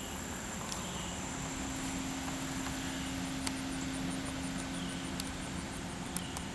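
A steady low rumble with a constant hum, like a running vehicle, with faint short high chirps every couple of seconds.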